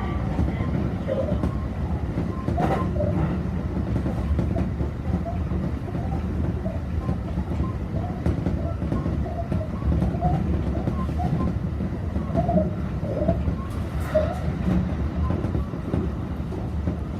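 Kintetsu commuter train running, heard from inside the car: a steady rumble from the running gear with a short creaking squeak ('kiko-kiko') repeating every second or so, which the rider places under the floor. A couple of brief clicks stand out, about three seconds in and near the end.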